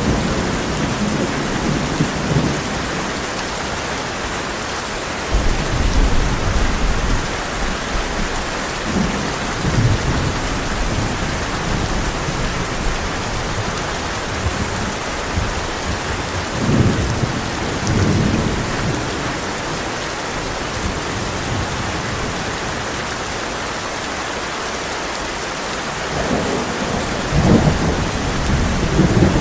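Heavy rain pattering steadily on a tin roof, with low rolls of thunder rumbling up several times, strongest near the middle and near the end.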